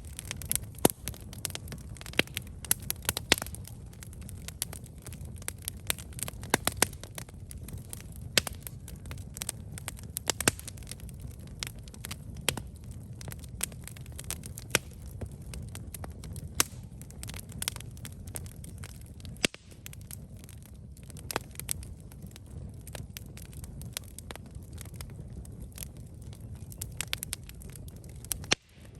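Wood campfire crackling, with frequent sharp irregular pops over a low steady rumble of the flames.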